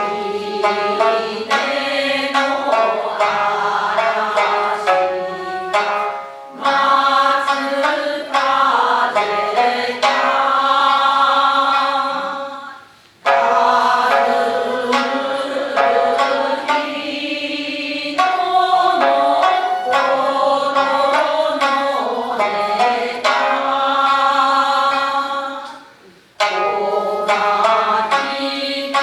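Japanese folk song (min'yō) sung in long, bending held phrases over instrumental accompaniment. The singing breaks off briefly three times, between phrases.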